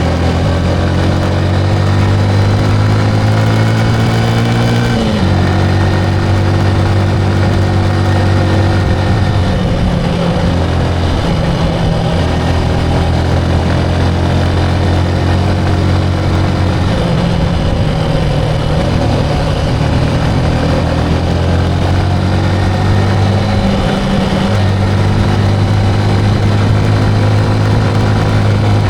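Motorcycle engine running steadily while riding. Its pitch changes a few times, rising about five seconds in and shifting again around ten, seventeen and twenty-four seconds, as throttle and gears change.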